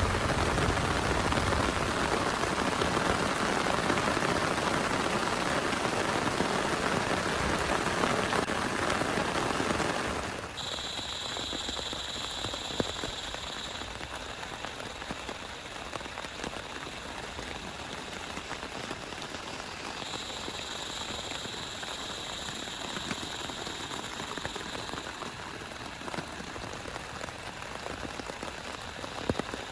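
Heavy rain falling steadily, then abruptly dropping to a lighter, quieter patter about a third of the way in. A faint steady high tone comes and goes twice over the lighter rain.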